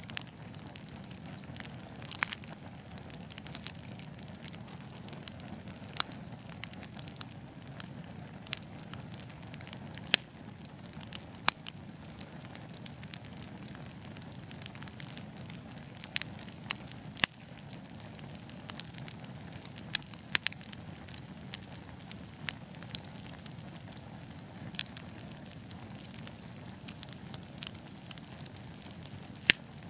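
Wood fire burning with a steady low hiss and irregular sharp crackles and pops, a few of them loud.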